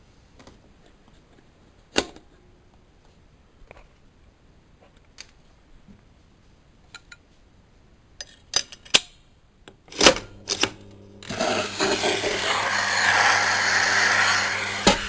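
Miele Professional WS 5105-C washing machine: scattered clicks and knocks, then about ten seconds in a steady hum starts and a loud, even rushing noise joins it about a second later, running until near the end.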